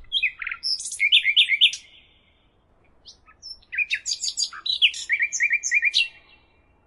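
A songbird singing two fast, varied song phrases of chirps and quick repeated trilled notes, the first in the first two seconds and the second from about four to six seconds in.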